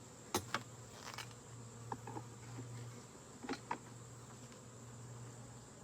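Honeybees buzzing in a steady low hum over an opened hive, broken by a few sharp clicks and knocks, the loudest two just under half a second in and another pair about three and a half seconds in.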